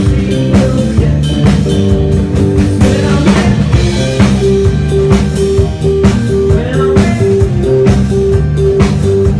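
Rock band playing live, an instrumental passage with a drum-kit beat, guitar and bass. About halfway through, a quick, evenly repeated high note enters and keeps pulsing over the beat.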